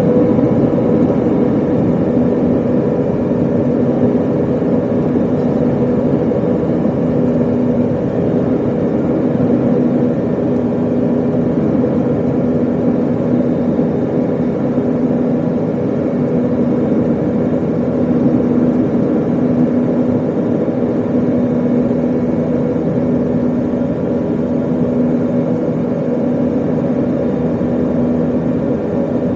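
Airbus A320 jet engines running at high power shortly after takeoff, heard inside the cabin: a steady, loud roar with a constant low hum.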